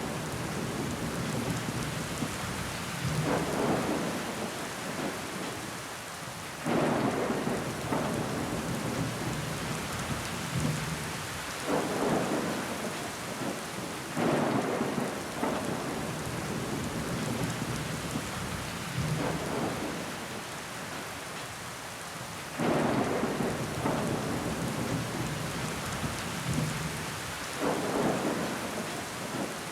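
Steady rain pattering on window glass. Every few seconds a sudden louder swell comes in and fades away over a second or two.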